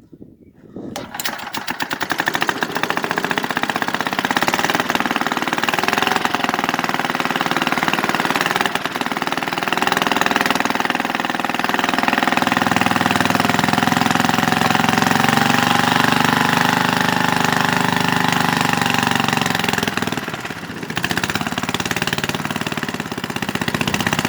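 1950s Briggs and Stratton single-cylinder engine starting about a second in and running steadily, its speed rising a little midway. Near the end it stumbles and dips, then picks up again: the owner takes it to be running out of gas, its fuel turned off because of a leak.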